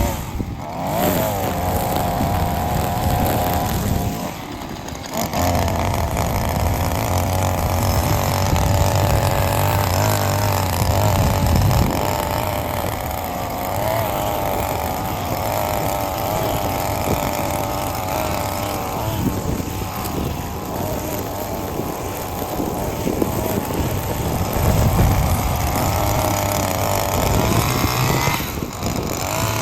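Small petrol engine of mowing equipment running under load while cutting overgrown grass, its pitch wavering up and down. It drops out briefly about half a second in and again around four to five seconds in.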